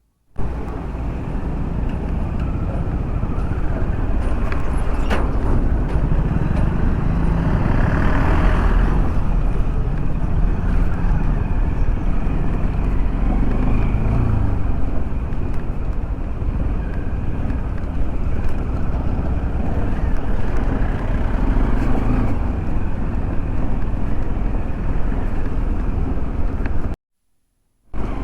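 Steady road-vehicle noise, a low engine and road rumble with wind, swelling briefly about eight seconds in.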